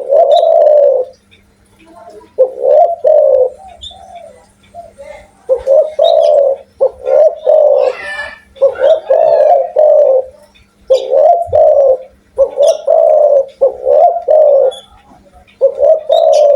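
Spotted dove (tekukur) cooing loudly and persistently, a run of low repeated coos in short phrases separated by brief pauses.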